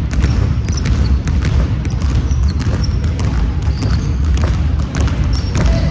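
Basketball game sounds in a gym: a ball bouncing on the court and players' sneakers squeaking in short high chirps, over a steady low rumble.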